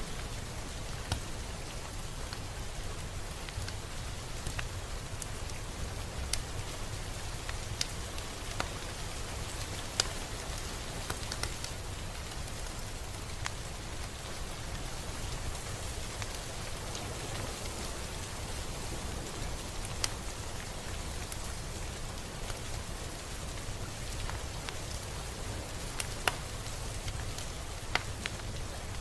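Steady rain falling on a surface, an even hiss with individual louder drops ticking here and there.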